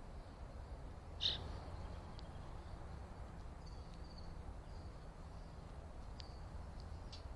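Small birds giving short high chips and twitters, with one louder chirp about a second in, over a low steady background rumble.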